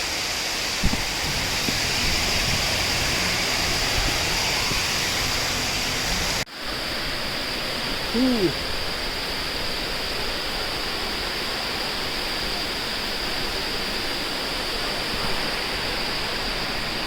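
Water pouring down a waterfall and its stream, a steady rush of noise. It drops out for an instant about six and a half seconds in, then carries on.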